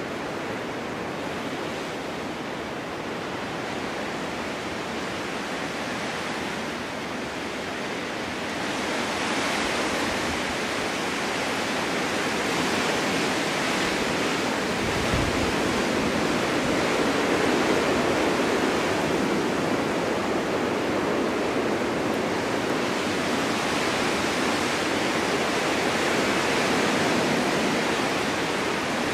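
Winter storm wind blowing in a steady rush, swelling stronger about a third of the way through and holding there.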